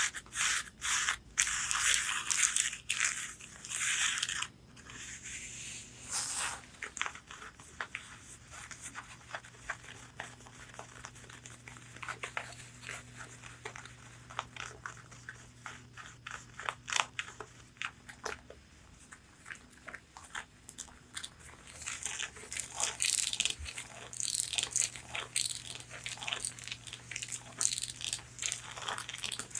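Long fingernails tapping and scratching on corset fabric, a close-up run of quick clicks and rasps. It stops briefly about five seconds in, then comes back as lighter, sparser taps that grow busier and louder near the end.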